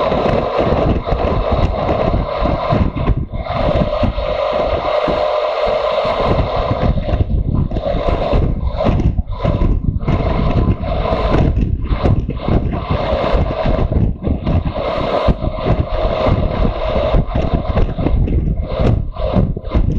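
Motorcycle on the move: its engine running steadily under loud, gusty wind noise on the microphone.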